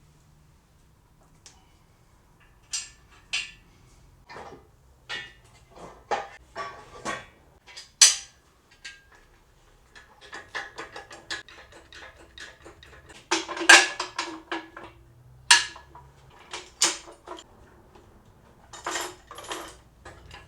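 Steel parts of an engine crane being assembled: irregular metal clanks and clinks, with a run of quick rattling about halfway through and the loudest clang near the middle of that run.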